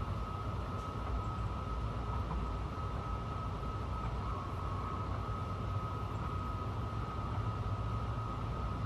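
Honolulu Skyline elevated metro train running, heard from inside at the front: a steady low rumble and rushing with a constant high-pitched whine over it.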